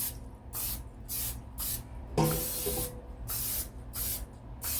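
Cooking-oil sprayer spritzing the air fryer basket in repeated short hisses, about two a second, with one longer spray and a knock a little past two seconds in.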